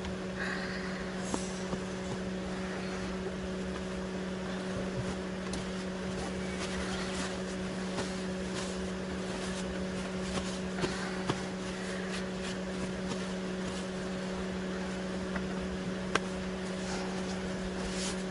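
A steady machine hum: one low drone with fainter overtones above it over a soft hiss, broken by a few light clicks.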